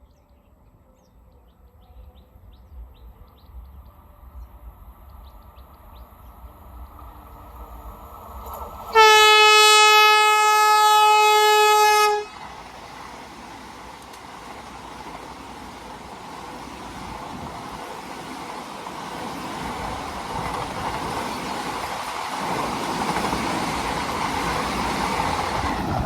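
Train horn sounding one long blast of about three seconds, then the rushing noise of the approaching train growing steadily louder.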